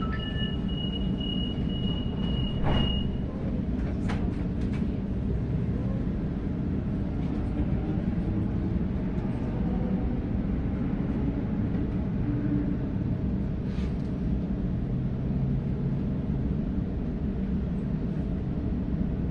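Inside a Sydney Trains Waratah (A-set) carriage, rapid high door-closing warning beeps stop about three seconds in, together with a knock as the doors shut. Then the train pulls away with a steady rumble and a faint rising motor whine.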